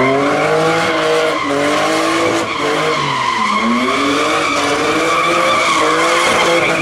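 Burnout: a Nissan Cefiro's RB25DE straight-six revs hard, its pitch rising and falling several times, while the spinning tyres squeal steadily.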